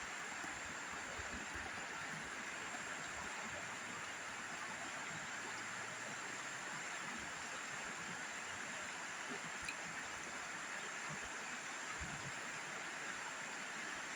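Steady rush of river water flowing over rocks and bedrock, an even hiss-like flow that does not change, with one faint tick near the end.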